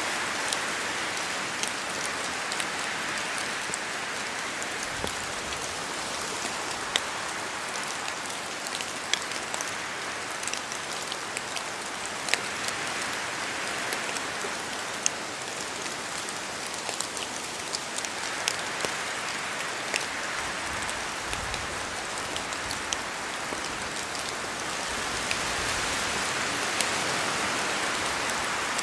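Steady rain falling through forest trees, with many individual drops ticking sharply on leaves and surfaces over the even hiss; the rain swells slightly near the end.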